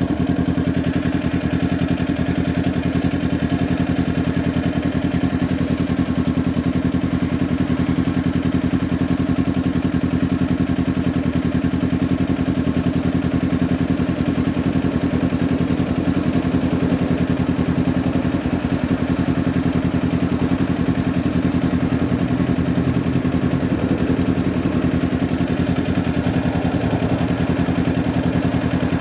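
Kawasaki Ninja 400's parallel-twin engine running through a Leo Vince LV10 aftermarket exhaust, holding steady revs at what sounds like idle, with an even, unchanging note.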